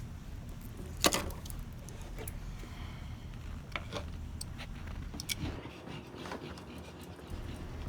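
Handling noises: one sharp click about a second in, then a few lighter clicks, over a low steady hum.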